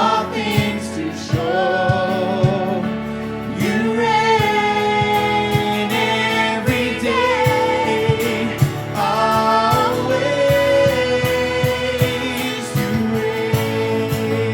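Worship band playing a song, with a singer holding long, wavering notes over steady chords and a regular beat.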